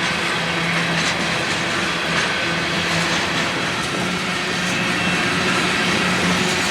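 Union Pacific freight train passing close by: a steady, loud noise of steel wheels running on the rails, with a low steady hum and faint regular clicks.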